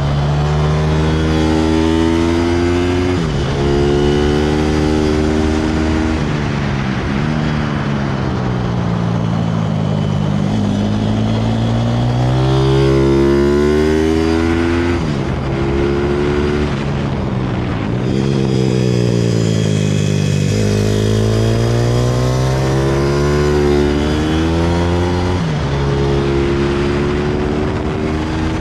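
160cc pit bike engine accelerating hard and slowing again, over and over. Its pitch climbs, breaks off sharply at each gear change, and falls away as it slows, with a steady low drone underneath.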